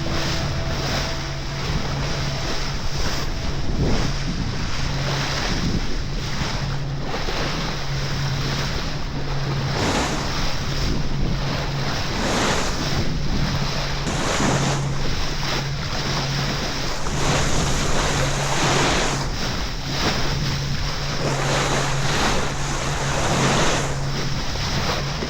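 Wind buffeting the microphone and sea water rushing past a sailboat under way, coming in uneven surges, with a steady low hum underneath.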